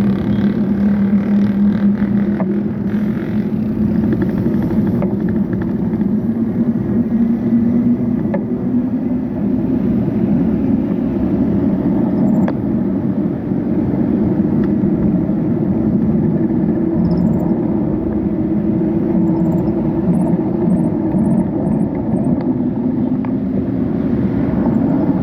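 Steady road noise while riding: a continuous low rumble with a hum that drifts slowly up in pitch, typical of traffic and wind on the microphone.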